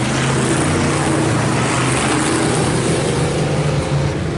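A pack of IMCA Hobby Stock race cars running at full throttle, a loud, steady blend of engines as the field takes the green on the restart.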